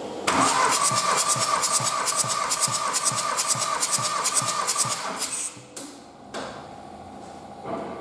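Volkswagen 1.9 TDI (AXR) four-cylinder diesel turned over on its starter motor, cranking with even compression pulses about four a second over a steady whine, stopping about five and a half seconds in.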